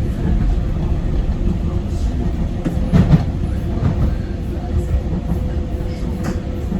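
Docklands Light Railway train running along the track, a steady low rumble with a faint steady hum. The wheels click over rail joints a few times, loudest about three seconds in.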